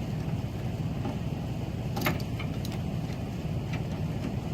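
Pickup truck engine idling steadily, with a few sharp metallic clinks from a tow chain being handled, the loudest about two seconds in.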